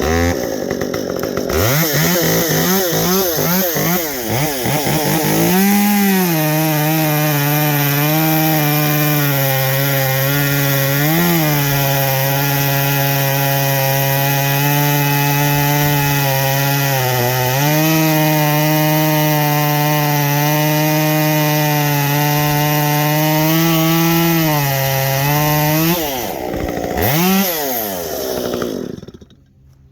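Muffler-modded Stihl MS 193 T top-handle two-stroke chainsaw. It is blipped up a few times, then held at high revs cutting wood for about twenty seconds, with the pitch dipping briefly twice. Near the end it drops off and dies away.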